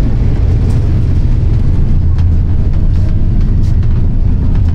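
Steady low rumble of a moving intercity passenger train, heard from inside the carriage.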